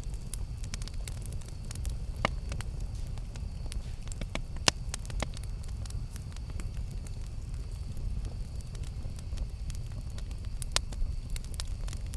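Wood campfire burning: a steady low rumble of flames with sharp, irregular crackles and pops, the loudest pop about a third of the way in and a quick cluster near the end.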